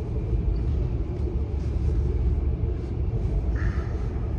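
Steady low rumble of a moving train, heard from inside the carriage, with a short higher-pitched sound about three and a half seconds in.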